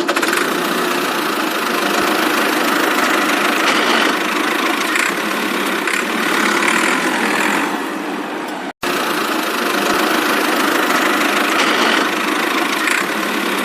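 DIY mini tractor running with a steady, dense motor noise, broken off for an instant about nine seconds in.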